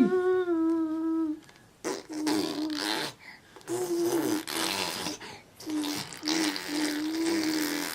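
A baby vocalising: a held hum for about a second and a half, then three long wet lip buzzes with the voice in them, blowing raspberries.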